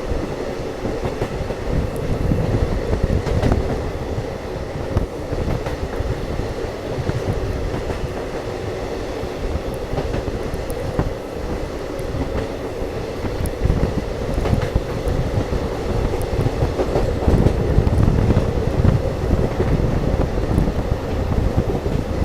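Poorna Express passenger train running on the track, heard as a continuous wheel-and-rail noise with faint sharp ticks now and then.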